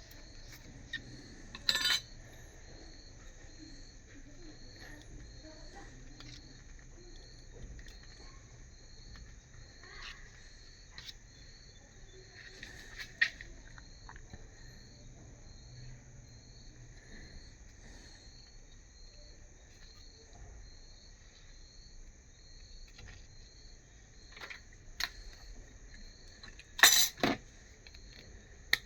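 Insect chirping at an even pace, about one and a half chirps a second, over a steady high hiss. Scattered clicks and a few louder sharp knocks, the loudest near the end.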